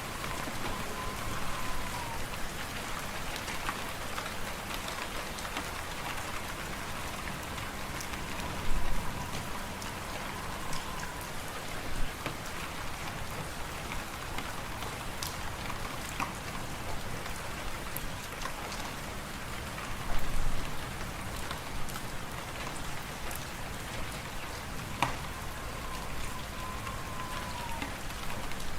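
Fireplace fire crackling: a steady hiss full of scattered sharp pops and clicks, with a few louder low thumps. Deep wind runs underneath, with a faint whistle that rises and falls three times.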